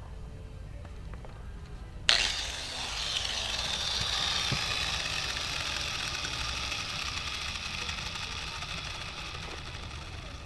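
A Dremel rotary tool switches on abruptly about two seconds in and runs steadily at high speed, grinding into wood to refine carved lettering. Its high-pitched hiss eases slightly toward the end. A low steady hum sits underneath.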